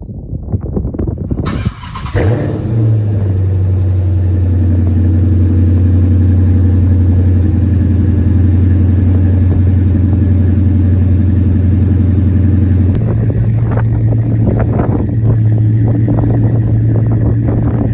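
Dodge Challenger Hemi V8 cold start: the starter cranks for under two seconds, then the engine fires and settles into a steady, loud fast idle through the aftermarket exhaust. About thirteen seconds in, the idle note changes and turns more uneven.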